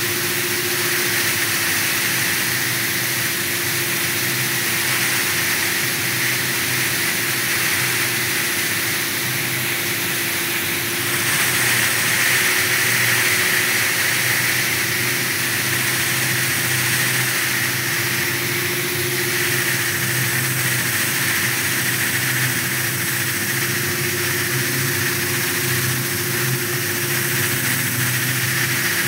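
Electric polisher running steadily: a continuous motor hum under a bright hiss of the pad on the surface. It grows a little louder and brighter from about eleven seconds in, for several seconds.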